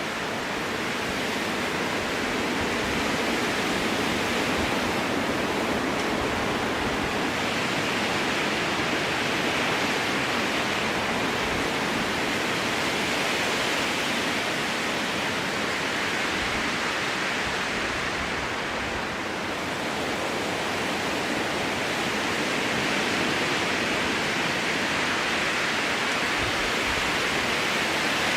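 Strong wind blowing through a spruce forest: a steady rushing in the trees that swells and eases slowly, with a brief lull about two-thirds of the way through.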